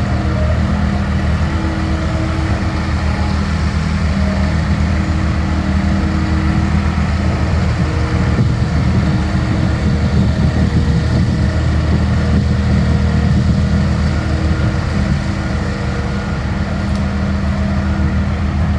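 Avant 860i compact loader's diesel engine running steadily under load as the loader works, with its pitch holding fairly even.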